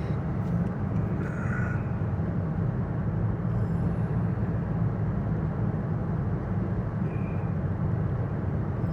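Steady low drone of engine and road noise inside a moving vehicle.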